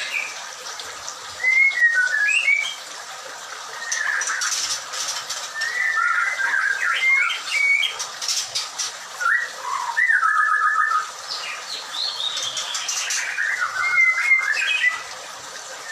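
White-rumped shama singing: varied whistled phrases with pitch glides and quick trills, coming in bursts with short pauses between them.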